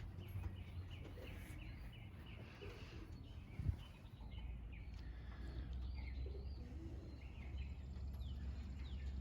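Birds chirping in quick short notes, with pigeons cooing faintly underneath. A single knock sounds a little over a third of the way through.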